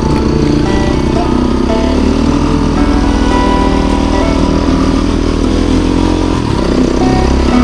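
Off-road motorcycle engine running under way, its note shifting up and down a little with the throttle, with a brief dip about six seconds in.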